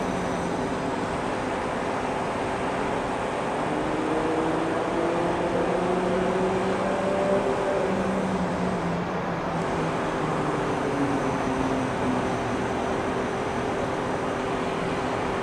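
Steady city traffic noise, with an engine's pitch rising and then falling as a vehicle passes, from about four seconds in.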